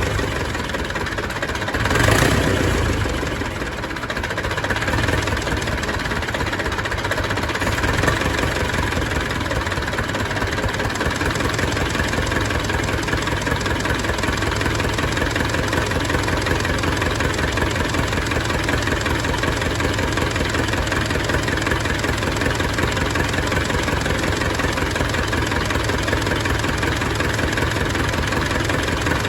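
Zetor 440 tractor's diesel engine running steadily at idle, just back in running order after its seized injection-pump pistons were freed. About two seconds in there is a brief louder surge.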